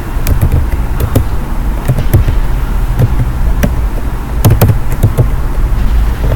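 Loud, steady low rumble of background noise with a dozen or so sharp clicks scattered through it.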